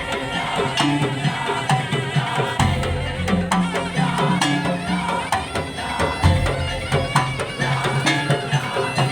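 Madurese tong-tong (daul) ensemble playing live: bamboo slit drums and drums beat a dense, fast, even rhythm under a sustained melody, with deep low drum notes swelling in and out.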